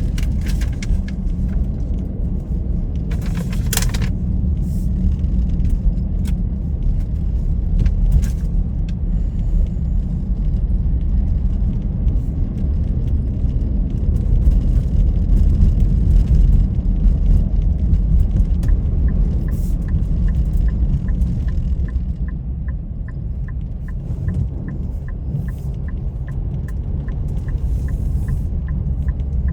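A car driving, with a steady low rumble of engine and road noise. From about two-thirds of the way in, a regular ticking comes in at about two ticks a second.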